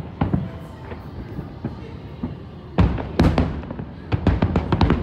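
Fireworks exploding: a few bangs early on, a loud cluster of bursts about three seconds in, then a rapid run of cracks near the end.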